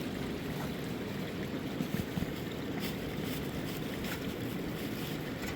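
Steady rush of a fast-flowing river, with a few brief knocks or clicks about two to three seconds in.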